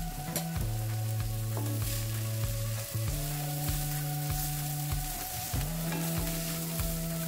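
Vegetable fried rice sizzling in a nonstick pan as cooked basmati rice is stirred and turned with a slotted spatula, over background music with a steady beat and held notes.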